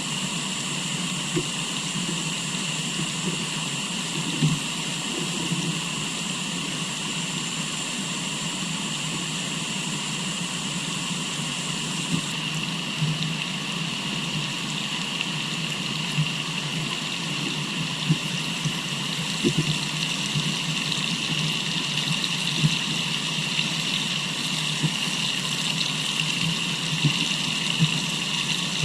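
River water flowing steadily, with a constant high-pitched whine over the rush and a few faint ticks.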